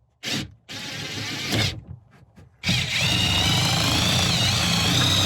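Power drill boring a pilot hole up through a van's ceiling paneling and roof. It runs in two short bursts, then runs continuously from about halfway in, with a high whine that wavers in pitch under load.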